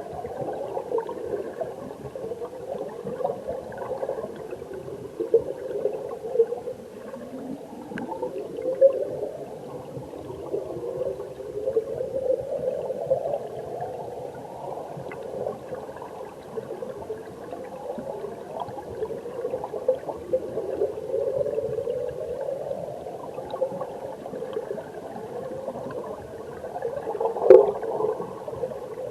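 Mountain stream water heard underwater: a steady gurgling and bubbling with slow rising tones sweeping through it again and again. A sharp click sounds near the end.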